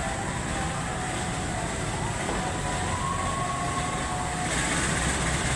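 A train running on the rails: a steady low rumble with faint high tones coming and going, growing a little louder near the end.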